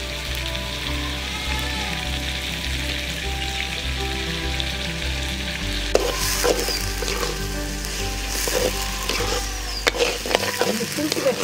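Goat lungs and liver sizzling as they fry in an iron kadai. From about halfway through, a metal spatula scrapes and knocks against the pan in several stirring strokes.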